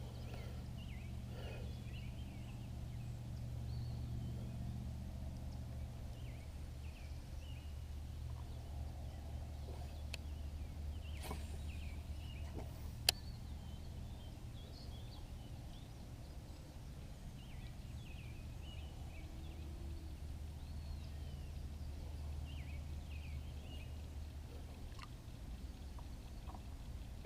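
Wild birds chirping on and off over a steady low hum, with a single sharp click about halfway through.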